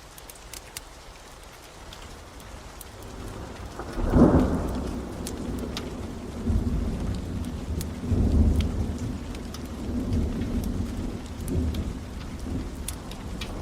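Steady rain with scattered sharp crackles of a wood fire, then a thunderclap about four seconds in that rolls on as a deep rumble, swelling several more times.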